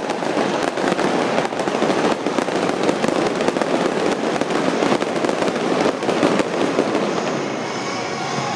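Fireworks display: a dense, continuous barrage of bangs and crackles. It thins out about seven seconds in, as steady music comes in.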